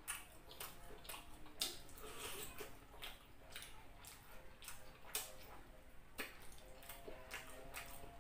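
Close-miked chewing of fried pork: irregular wet smacks and clicks from the mouth, several a second, with no speech.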